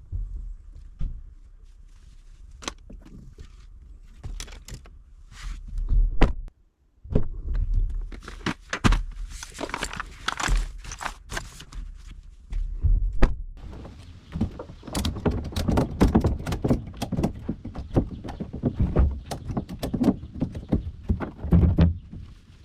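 Thunks, knocks and clatter of fishing gear being handled and loaded, with footsteps and a low rumble. The sounds are scattered at first, then come thick and fast from about seven seconds in.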